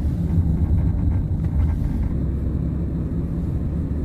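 Car driving uphill on a mountain road, heard from inside the car: a steady low rumble of engine and tyre noise.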